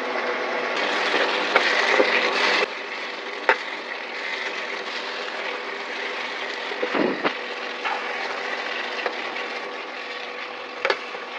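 Chicken pieces frying in oil in a nonstick pan with a steady sizzle, and a metal spoon scraping and knocking against the pan now and then as it is stirred. The sizzle is louder for the first couple of seconds, then lower and even.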